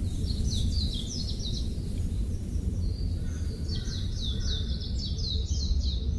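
A songbird sings two quick runs of short, high, downward-slurred notes, the second run longer, over a steady low rumble.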